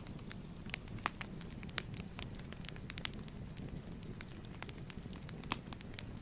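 Wood fire crackling and popping in a fireplace: irregular sharp pops several times a second over a steady low rumble of the flames.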